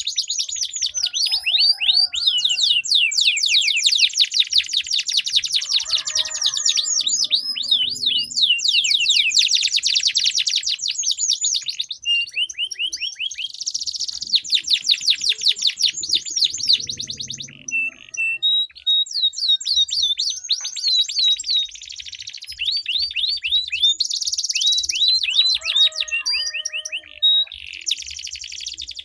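Domestic canaries singing long rolling trills: very fast runs of repeated high sweeping notes, broken by a few short pauses.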